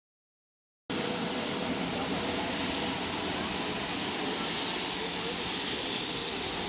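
About a second of dead silence, then a jet airliner taking off: steady, even engine noise with a faint hum that holds throughout.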